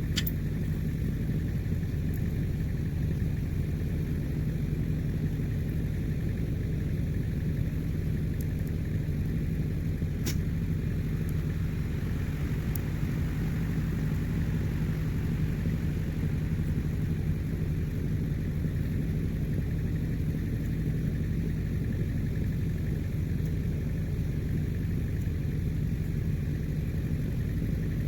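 Yamaha four-wheeler's engine idling steadily as it warms up after a jump start, with no revving.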